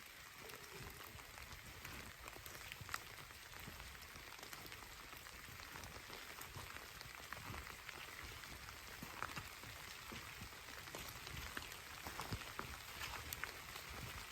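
Steady rainfall: an even hiss with scattered sharp ticks of single drops striking nearby surfaces.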